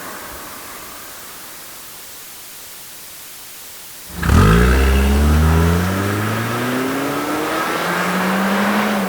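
Passenger car engine that starts suddenly about four seconds in, loud, with revs climbing as the car pulls away. The pitch drops once, as at a gear change, then rises again.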